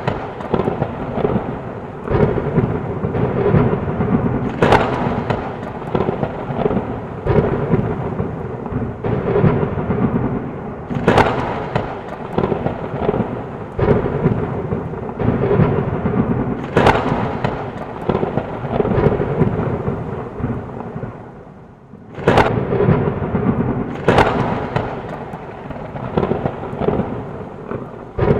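Steady heavy rain under a continuous low rumble of thunder, with about five sharp thunder cracks spread through it. It dips briefly quieter shortly before one of the cracks near the end.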